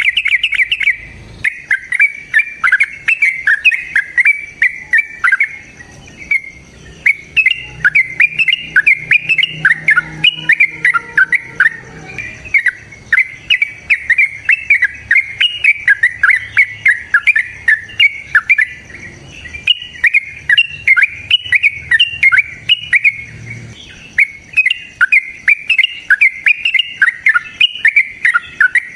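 A caged songbird singing in long, fast runs of sharp chirps, with only short breaks every several seconds.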